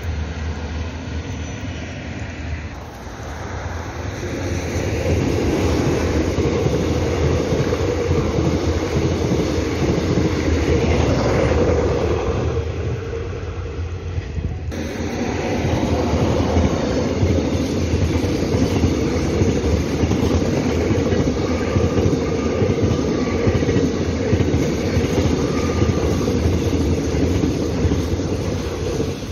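Passing trains: a steady low rumble and rush of wheels on rail that builds about four seconds in, dips briefly, and changes abruptly about halfway through, as a blue train runs past on the near tracks near the end.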